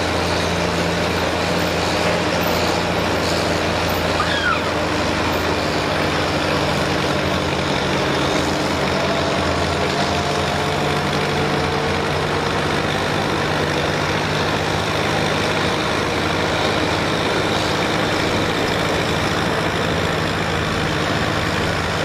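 Heavy pulling tractor's diesel engine running at a steady speed, with a faint rising whine in the middle.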